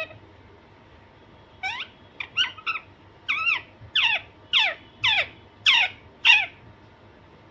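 Alexandrine parakeet calling: a series of about a dozen short, harsh calls, each falling in pitch, starting about a second and a half in and coming roughly two a second.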